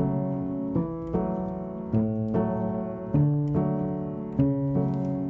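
Background music: a piano playing gentle chords at a steady, even pace.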